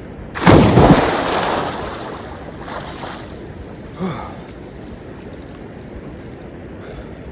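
A person jumping into a lake: a sudden loud splash about half a second in, then water churning and settling over the next couple of seconds.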